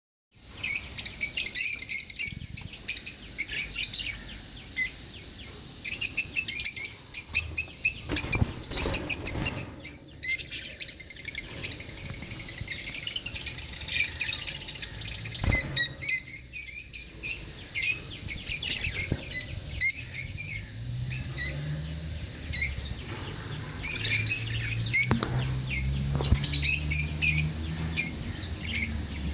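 Lovebirds chirping in rapid bursts of shrill, high-pitched chatter with short pauses between bursts. A faint low hum comes in during the second half.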